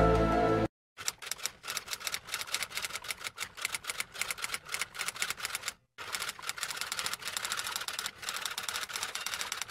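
Typewriter keys clacking in fast, irregular strokes, with a short pause about six seconds in. The last of a music clip cuts off abruptly under a second in, before the typing starts.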